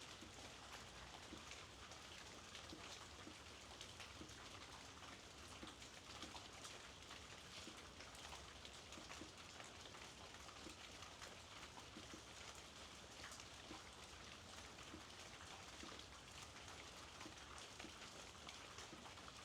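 Soft, steady rainfall, with many small drops ticking on nearby surfaces.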